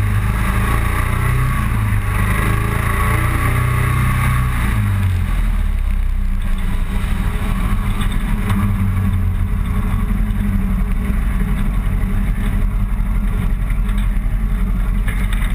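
Motorcycle riding along a road: its engine runs steadily under a wash of wind noise, and the engine note drops about five seconds in as it slows or shifts.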